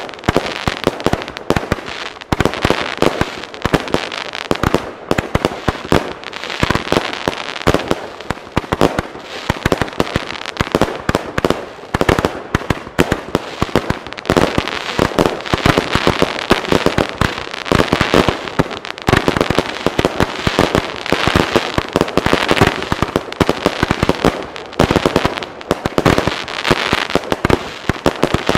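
Ten Weco Casino Royal fireworks batteries firing together on one ignition: a dense, unbroken barrage of shot launches and aerial bursts, many bangs a second with no pause.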